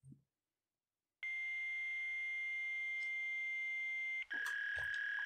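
A steady electronic tone starts abruptly about a second in and holds for about three seconds, then switches to a slightly lower steady tone, with faint hiss underneath.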